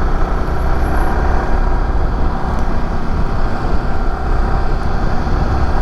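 Yamaha R15 V3 motorcycle's single-cylinder engine running at a steady cruise while riding, with low wind rumble on the camera microphone.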